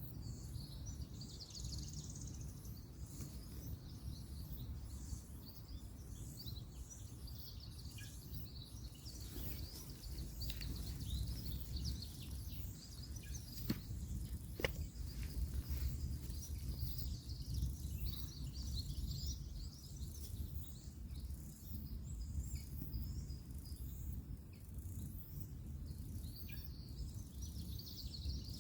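Woodland ambience: a steady low rumble of distant road traffic, with birds chirping and a steady high pulsing. Two sharp clicks come about halfway through.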